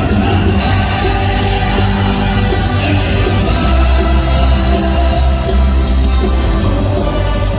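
Live band playing a loud, upbeat praise song, with heavy bass, drums and guitar and singing voices in the mix.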